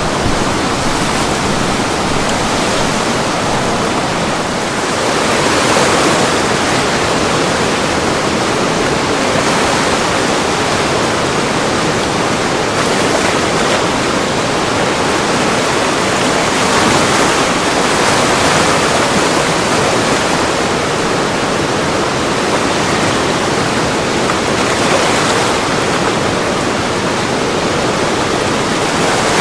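Whitewater rapids of a river in flood, a loud, steady rush of water breaking over large boulders.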